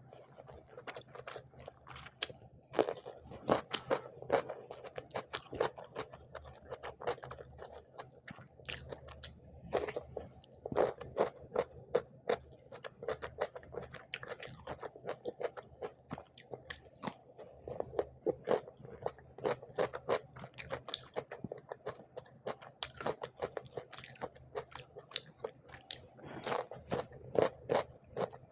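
Close-miked crunching as a raw cucumber slice is bitten and chewed, many sharp crunches following one another quickly.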